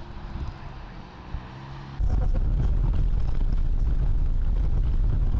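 Car driving noise as picked up by a dashcam: a quieter stretch with a faint low engine hum, then about two seconds in a cut to a louder, steady low rumble of road and wind noise.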